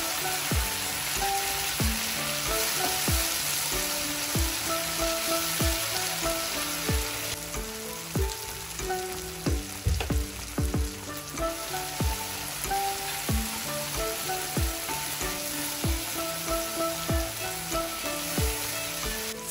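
Garlic and tomato ketchup sizzling in butter in a frying pan, stirred with a wooden spatula. The sizzle is a steady hiss that eases for a few seconds in the middle. Background music with a steady beat plays alongside.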